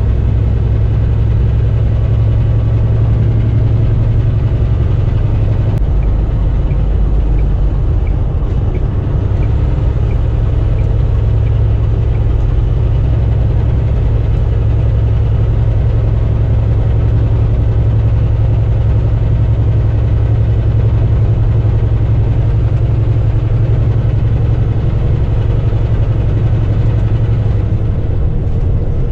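Semi-truck's diesel engine running with a steady low drone.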